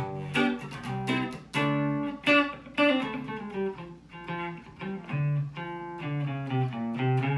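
Fender Mexican-made Stratocaster electric guitar played clean on its Lace Sensor neck pickup: a run of picked single notes and chords, each note ringing briefly before the next.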